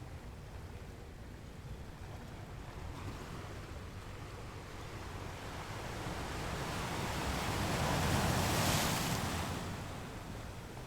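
Ocean wave breaking: a rush of surf that builds over several seconds, peaks about eight seconds in, then subsides.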